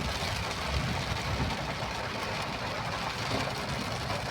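A motor vehicle's engine running steadily, with a low rumble under an even hiss.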